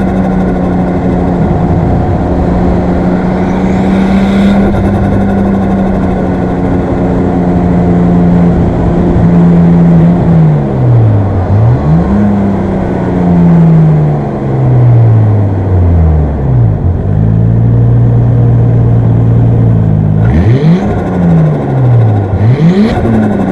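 Nissan Skyline R34 GT-T's single-turbo RB25DET NEO straight-six holding steady revs for about ten seconds, then revving up and falling back several times as it is driven hard through the gears. Short bursts of hiss come a few times.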